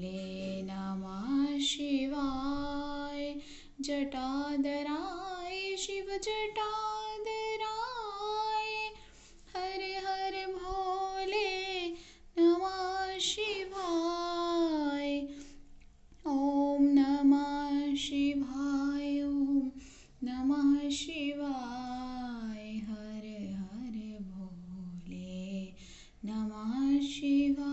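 A woman's voice singing a Shiva bhajan melody in long held and gliding phrases, with short breaks between them. A faint steady tone sits underneath.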